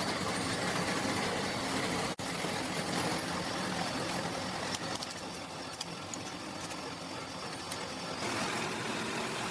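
Steady workshop machine noise, cutting out for an instant about two seconds in.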